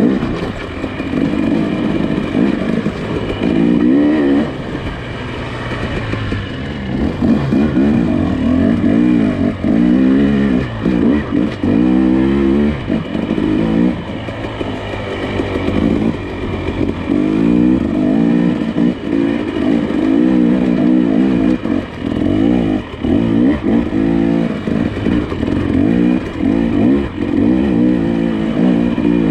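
Nissan Pathfinder SUV engine working over a rough dirt trail, its revs rising and falling every second or two as the throttle is worked.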